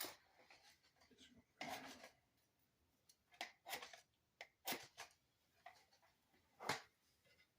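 Pieces of split oak firewood being set into a fireplace: a series of faint knocks and short scrapes of wood on wood, the sharpest knock near the end.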